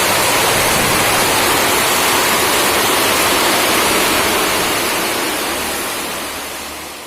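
Steady heavy rain, a dense even hiss, fading out over the last couple of seconds.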